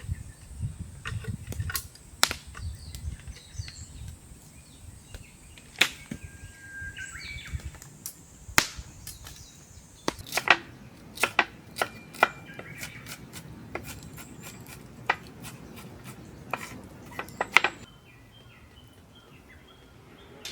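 Irregular sharp clicks and knocks, some loud, with birds chirping and a steady high insect drone that stops about halfway through.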